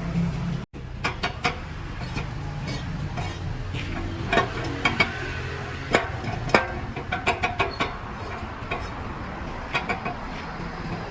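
Metal tools and parts clinking and tapping irregularly, with a few sharper strikes, over a steady low mechanical hum.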